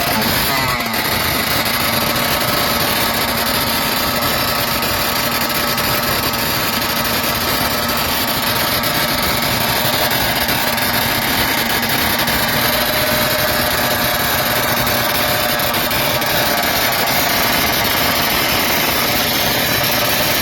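Small-displacement motorcycle engine running loud and steady at idle, without a break.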